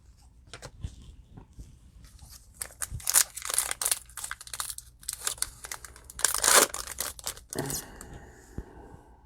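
Crackly tearing and crinkling of a trading-card pack wrapper being ripped open and handled, in bursts, loudest about two thirds of the way through, then easing into a quieter rustle near the end.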